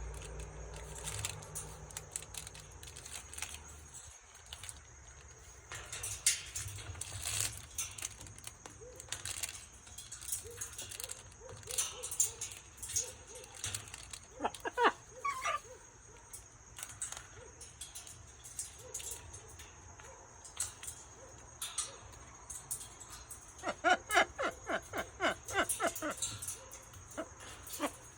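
Blue-and-gold macaw and umbrella cockatoo playing with a toy: scattered clicks, knocks and rattles from handling it, with two short runs of quick repeated squeaky notes, one about halfway through and a longer one near the end.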